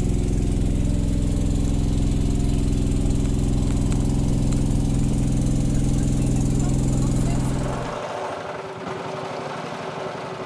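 An engine running steadily at one speed, which stops abruptly about eight seconds in, leaving a steady hiss.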